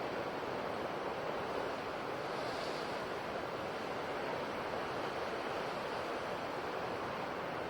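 Ocean surf on a coast: a steady, even rush of waves with no single crash standing out.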